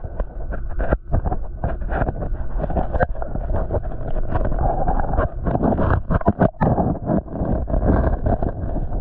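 Muffled, rumbling water noise from a camera submerged in a garden pond, cut up by irregular knocks and bumps.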